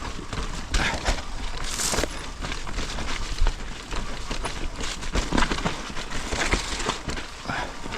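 Mountain bike rolling down a rough dirt trail: steady tyre and wind noise with irregular knocks and rattles as the bike goes over bumps.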